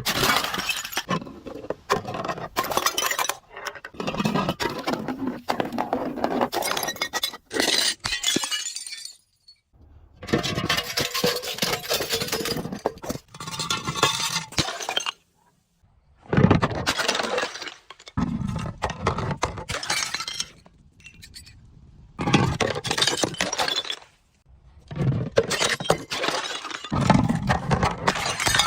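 Glass being crushed and breaking: dense crunching and clinking of shards in bouts of a few seconds, with short pauses between them and a dull thud at the start of several bouts.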